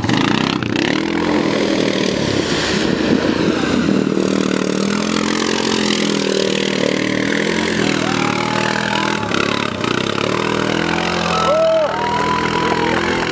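ATV engines running and revving, the engine pitch rising and falling.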